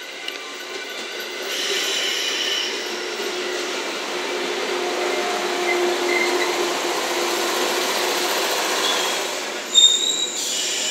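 JNR 117 series electric train running into the station close past the platform, its wheels rumbling with a steady squeal from the wheels and brakes. A short, loud screech comes near the end.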